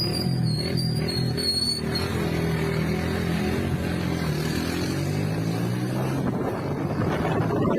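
A motor running steadily, with a faint high wavering tone over the first two seconds.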